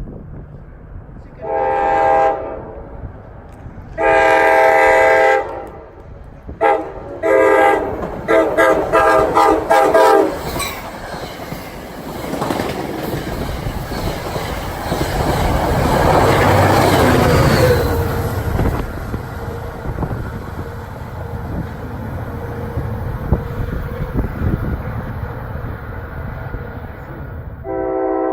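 NJ Transit train sounding its multi-note horn in a string of blasts: two longer ones, then several shorter ones in quick succession. The train then passes with a steady rumble of wheels on rail that swells to its loudest about halfway through and eases off.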